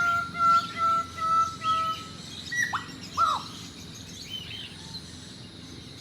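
A bird calling in five short whistled notes, one after another, then two quick notes that drop steeply in pitch, over a steady low background hum.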